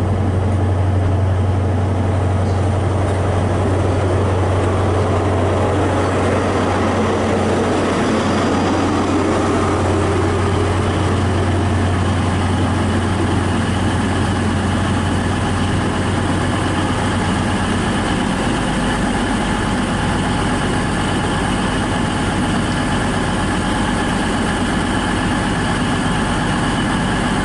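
Diesel engines of a pair of CrossCountry Class 221 Voyager trains idling at the platform: a steady low hum with a few steady higher tones. The low hum drops away about two-thirds of the way through.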